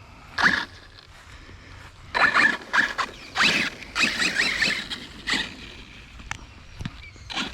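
Arrma Kraton 6S electric RC monster truck's brushless motor whining in several short bursts of throttle, the whine rising in pitch within the bursts.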